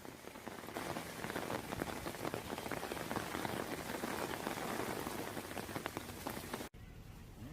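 Heavy rain pouring down, a dense patter of drops hitting a surface. It cuts off abruptly near the end, leaving a much quieter background.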